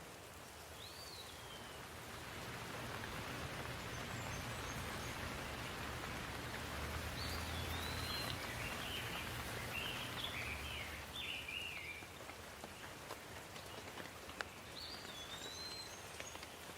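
Steady rain falling, growing louder through the middle and easing off again. A bird chirps briefly about a second in, sings a short run of warbling notes midway, and chirps again near the end.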